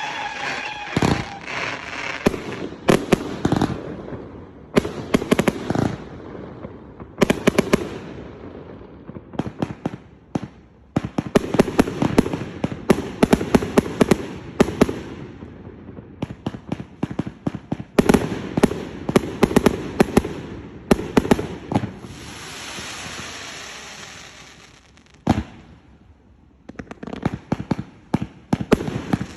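A 218-shot, 1.2-inch fan-shaped firework cake firing: rapid volleys of sharp pops and bursts in dense clusters, with short lulls between them and a few seconds of steady hissing crackle partway through.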